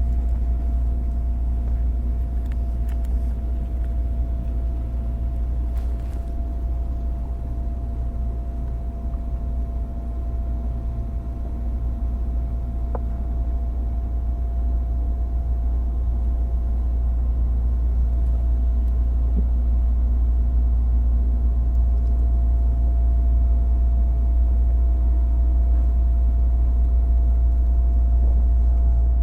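A JR East 205-series electric train heard from inside a motor car fitted with MT61 externally ventilated traction motors, running along the line. It gives a steady low rumble with a faint constant hum, and slowly grows louder over the second half.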